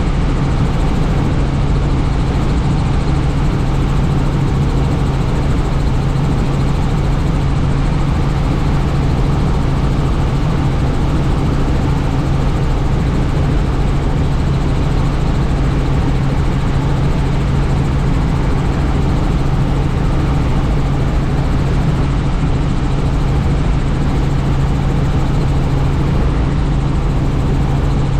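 Helicopter's engine and rotors running steadily, a constant low drone with rushing air noise, unchanged throughout.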